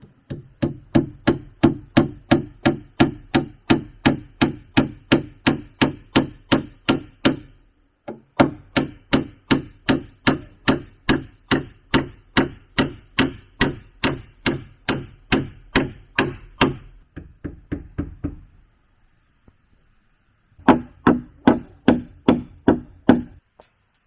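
A tool striking wood in rapid, even blows, about three or four a second, in three runs: a long run, a short break, a second long run that tails off into lighter blows, then after a pause a brief third run near the end.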